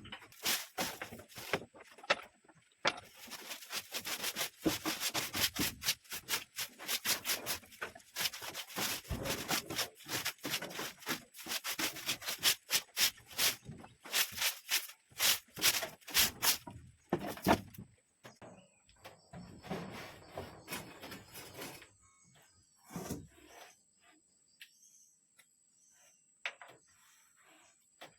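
Wood being rubbed and scraped in a dense run of sharp, crackling strokes for about eighteen seconds, then only a few scattered knocks.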